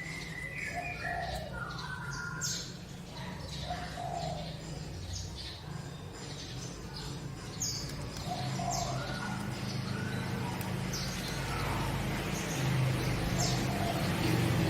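Small sunbird (kolibri) singing: quick, sharp, high chirps repeated irregularly, mixed with a few short warbled phrases, over a steady low hum and background noise that grows louder in the second half.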